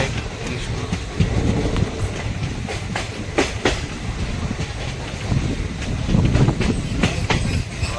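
Passenger train running at speed, heard from inside the coach: a steady low rumble of wheels on rail, with sharp clacks over rail joints, some in quick pairs, a few times.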